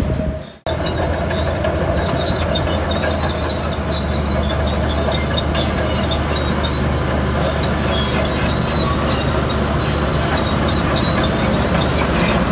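Bulldozer's diesel engine running steadily, with repeated high metallic squeaks and clanks from its crawler tracks. The sound cuts out for a moment about half a second in.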